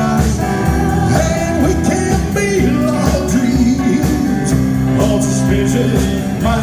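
Live rock and roll band playing, with guitar.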